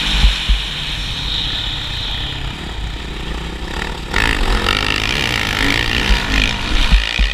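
Motocross motorcycle engine running with changing throttle, its pitch rising and falling and growing louder about four seconds in.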